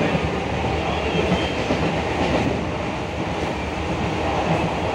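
Steady rumble of an ICF-built Medha-rake EMU local train running along the track, heard from inside the coach.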